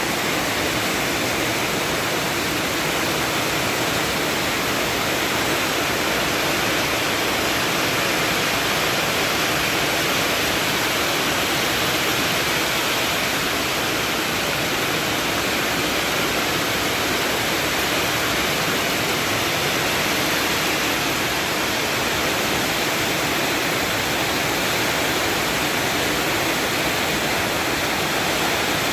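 Heavy rain pouring down steadily during a storm, a dense, even hiss with no letup.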